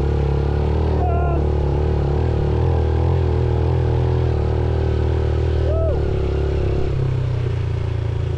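Motorcycle engine running steadily at an even pitch. There are two brief high squeaks, about a second in and again near six seconds.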